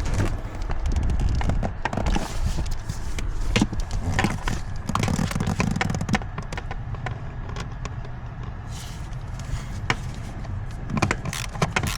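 Handling noise of hands working parts loose: irregular clicks, knocks and scrapes of plastic and small metal parts over a low, uneven rumble, with a cluster of sharp clicks near the end.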